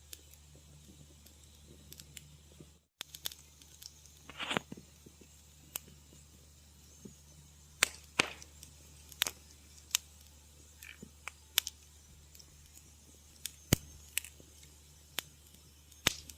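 Wood fire in a fireplace crackling, with irregular sharp pops of burning logs over a low steady rumble; one longer pop with a brief hiss about four and a half seconds in. The sound drops out completely for a moment about three seconds in.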